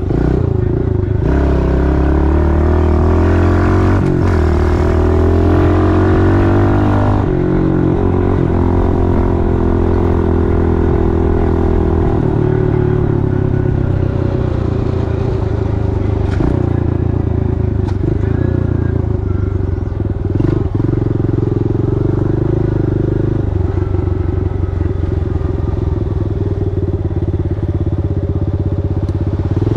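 Pit bike's small single-cylinder four-stroke engine under way: it revs up through the gears early, its pitch climbing and dropping at two shifts. It then runs at a steadier, rougher speed.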